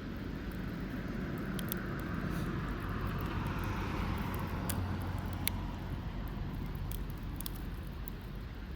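Distant engine noise, a steady low rumble that swells and slowly dips in pitch over a few seconds as if passing by, then eases off. A few sharp clicks sound now and then.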